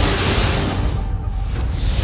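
High-pressure water jet from a fire hose spraying in a loud, steady rush, over background music. The hiss thins out briefly a little past halfway.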